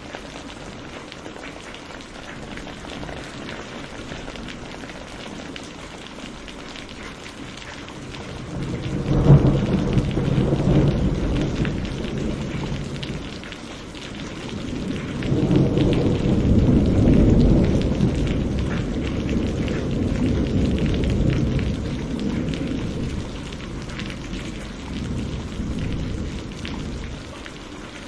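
Steady heavy rain with two rolls of thunder: a sharp crack about a third of the way in that rumbles off, then a longer, louder rolling rumble that slowly dies away near the end.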